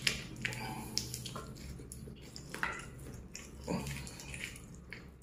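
Faint chewing and wet mouth sounds of a man biting into and eating a coated fried chicken piece, with scattered short smacks and clicks.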